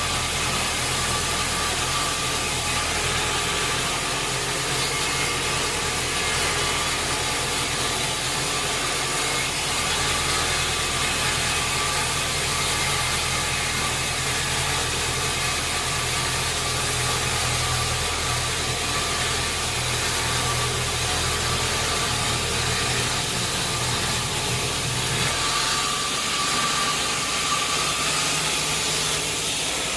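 Sawmill machinery running steadily, a constant engine-like hum under an even hiss. The low hum drops away near the end while the hiss continues.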